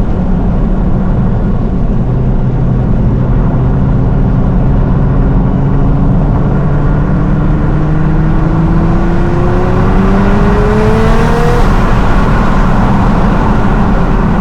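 Nissan R35 GT-R's twin-turbo 3.8-litre V6 accelerating, its pitch climbing steadily for several seconds and then dropping at an upshift near the end, with a brief hiss at the shift.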